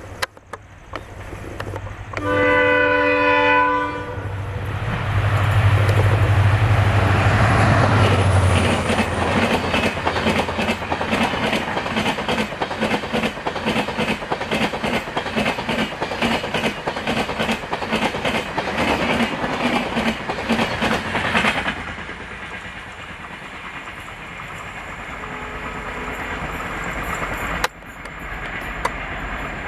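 Indian Railways WDP-4D diesel locomotive passing at speed with an express train. Its multi-tone horn sounds once for under two seconds about two seconds in, the locomotive's engine rumble follows, and then the coaches' wheels clatter over the rail joints in a fast, even rhythm until the end of the train passes about 22 seconds in and the sound drops away.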